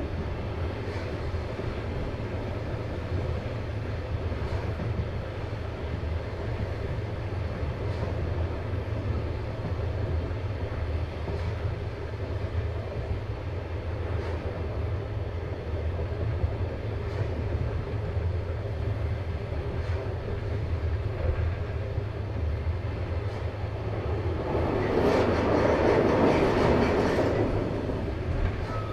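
Passenger train running at speed, heard from a compartment coach: a steady low rumble of wheels on rails with faint clicks every few seconds. Near the end it swells into a louder rush for about three seconds, then settles back.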